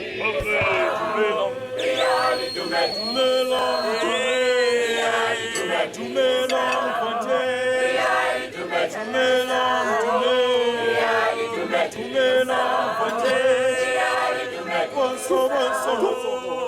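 A group of voices singing unaccompanied in harmony, with sustained, wavering notes.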